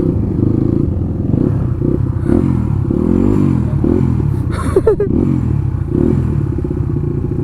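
Motorcycle engine running as the bike is ridden, its pitch rising and falling with the throttle, with rumbling noise underneath.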